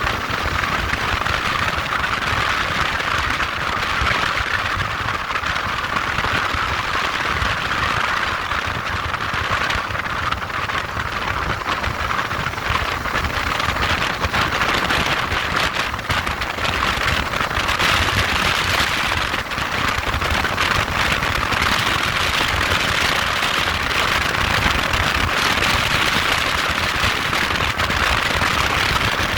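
Motorcycle running steadily, its engine rumble under a constant hissing noise.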